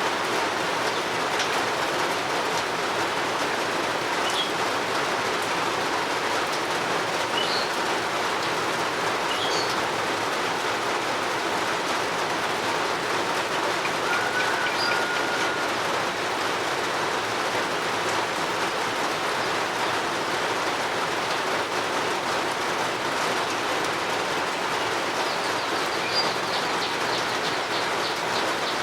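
Steady rain falling, with short high bird chirps now and then and a rapid high bird trill near the end.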